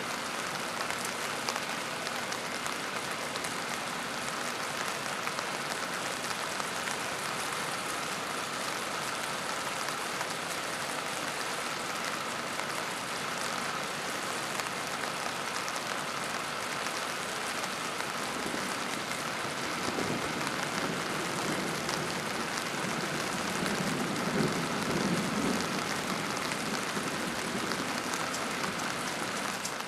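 Steady rain falling in a thunderstorm, an even hiss, with a low rumble that swells and fades in the last third.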